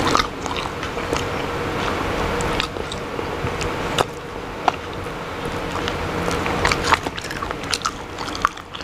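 A person chewing and biting on chicken feet close to the microphone, with scattered sharp clicks over steady background noise.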